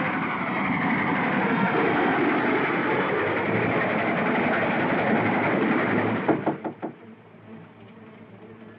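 Steam train running, a loud steady rush of noise that cuts off about six seconds in. It gives way to a quick run of about five sharp knocks on a door.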